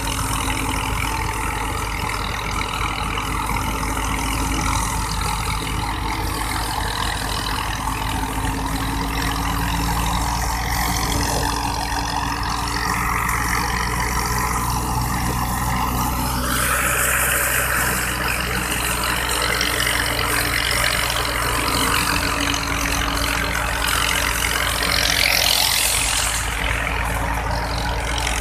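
Wheat thresher running steadily: a constant engine drone under a rushing, hissing machine noise that grows louder a little past halfway through.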